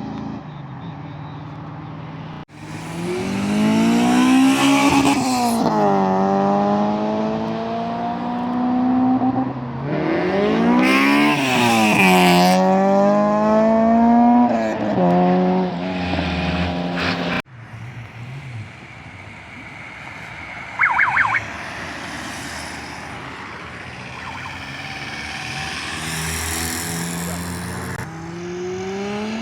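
A vehicle's engine accelerating hard from a standing launch. Its pitch climbs and drops sharply at each gear change, in two hard runs, then settles to a quieter running sound. A brief high-pitched pip sounds about two-thirds of the way through.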